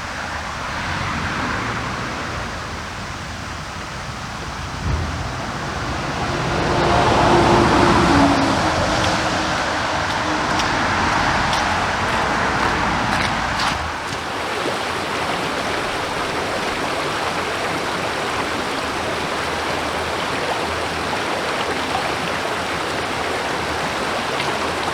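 Rushing water of a stream and small waterfall, a steady hiss. A deeper rumble underneath in the first half drops away about halfway through, leaving an even rush.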